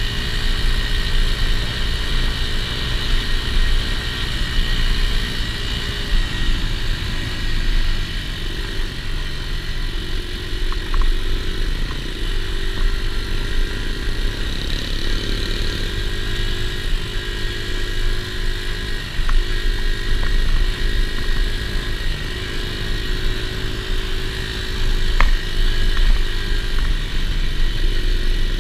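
Dirt bike engine running at a fairly steady speed, close to the microphone, with a heavy low rumble underneath.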